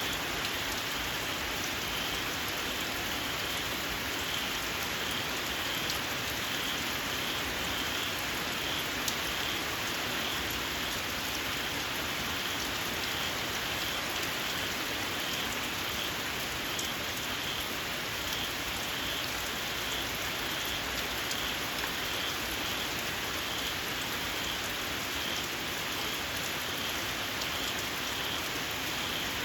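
Steady rain falling, with a small frog calling over it in a steady, evenly spaced run of short, high-pitched chirps.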